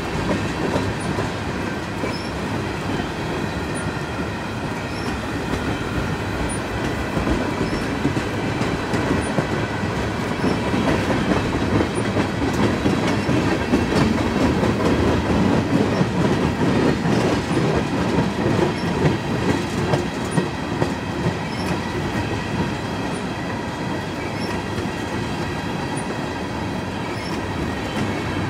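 Railroad cars rolling past on the track, the wheels making a continuous rolling clatter, a little louder through the middle.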